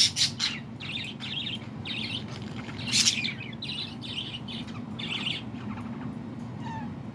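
Small bird chirping in short, quick calls, two or three a second, the loudest about three seconds in, stopping a little after five seconds. A low steady hum runs underneath.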